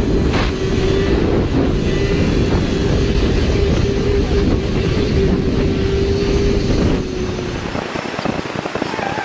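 Motorcycle riding at a steady speed: rushing wind and road noise over a steady engine hum. The sound drops suddenly about seven seconds in and the hum fades out.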